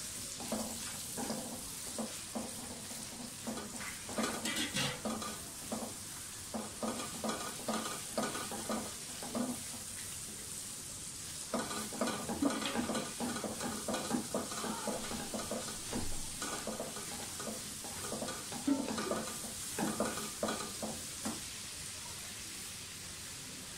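Grated garlic, ginger and whole spices frying in hot oil in a non-stick wok: a steady sizzle under the irregular scraping strokes of a silicone spatula stirring them. The stirring stops near the end while the sizzle goes on.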